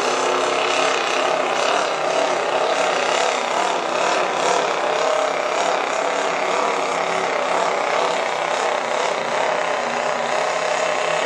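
Turbocharged diesel pickup truck engine at full throttle under heavy load, pulling the sled. The engine note holds steady with a slight waver in pitch.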